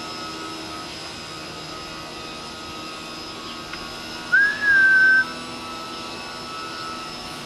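A toy RC boat's electric motor and turbofan whine steadily. About four seconds in, one loud high whistle rises quickly and then holds for about a second.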